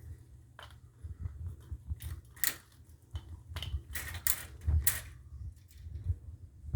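Irregular clicks and crackles over a steady low rumble, the loudest a few in the middle, typical of a handheld phone or camera being handled while recording.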